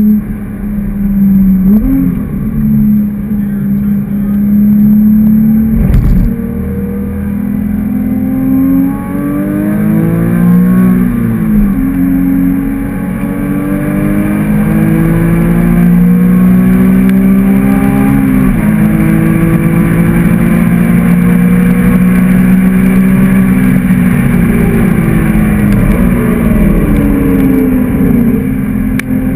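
Porsche 997.2 GT3's 3.8-litre flat-six, with an aftermarket muffler, heard from inside the cabin under hard track driving. The revs dip and climb back through downshifts around ten seconds in and again near the end, climb long through a gear and drop at an upshift in between, then hold high. A single sharp thump about six seconds in.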